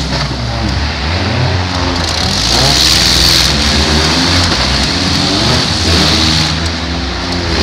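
Engines of several compact demolition-derby cars revving, their pitches rising and falling over one another, above a steady noisy haze.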